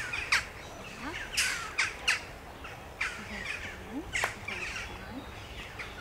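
Birds calling over and over, several short calls overlapping, with a few louder ones.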